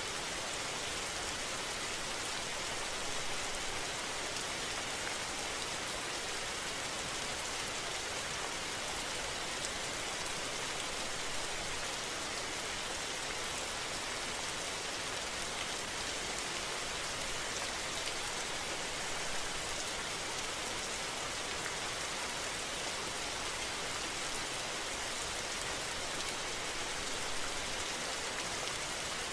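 Steady, even rain-like hiss with no breaks, fairly loud and without separate drops or knocks standing out.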